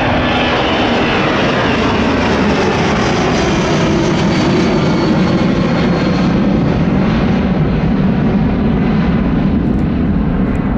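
Boeing 777-200ER's twin jet engines at takeoff thrust, a loud steady roar with a faint high whistle, the deeper rumble building toward the end.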